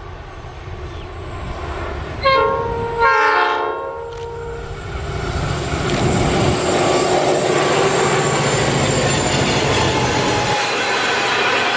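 Freight train hauled by two 81 class diesel-electric locomotives sounds its horn about two seconds in, in two quick blasts. The locomotives then pass close by, the engine noise and wheels on the rails growing loud and staying loud.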